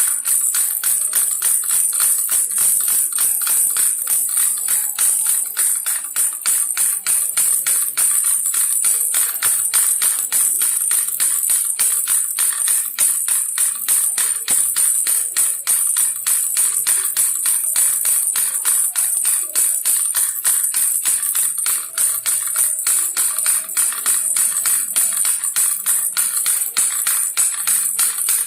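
Baby rattle shaken rapidly and steadily, a dense run of bright, high jingling clicks.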